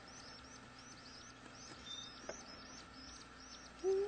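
Canary chicks in the nest cheeping: a steady run of thin, high cheeps, about three a second.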